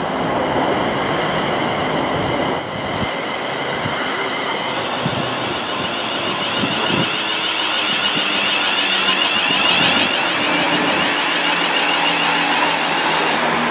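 Class 350 Desiro electric multiple unit arriving and running past along the platform: a steady rumble of wheels on rails, with a high whine that grows louder about five seconds in.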